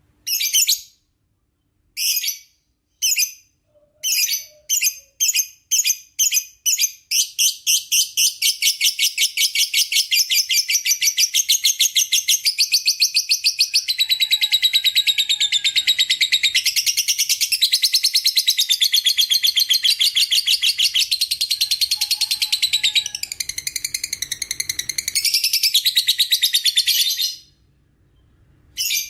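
Lovebird's long 'ngekek' chatter: a few separate high chirps that come faster and faster, then run into an unbroken rapid stuttering trill. The trill lasts about twenty seconds before stopping abruptly, with one more short call near the end.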